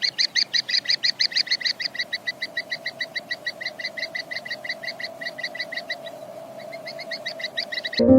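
A bird calling in a rapid run of short, evenly spaced notes, about six a second, that fades over several seconds, breaks off briefly and starts again near the end, over a faint steady hum.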